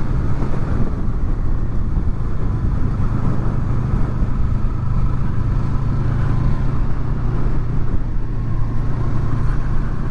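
Honda VFR800's V4 engine running at a steady cruise, with wind and road noise, picked up by helmet microphones under furry windshields.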